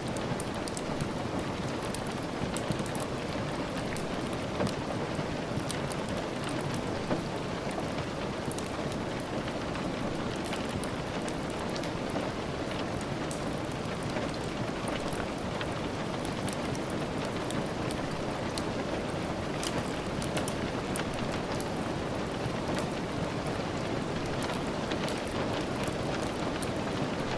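Steady rain, with scattered small sharp pops and ticks from a crackling wood fire.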